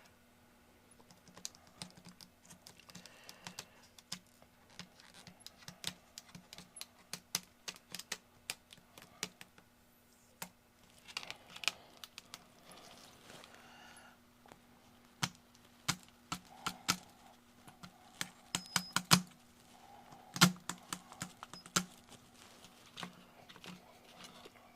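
Irregular light clicks and taps of small plastic model parts and tools being handled on a workbench, coming thicker and louder in the second half, over a faint steady hum.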